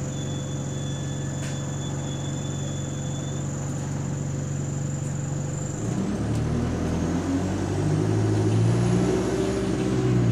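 Bus engine idling steadily, heard from inside the passenger cabin with a steady high hum, then about six seconds in it pulls away, the engine note climbing under acceleration with a faint high whine rising alongside, easing off near the end.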